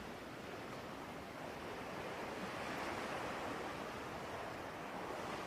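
Faint, steady rushing noise under the meditation, swelling gently in the middle and easing off again.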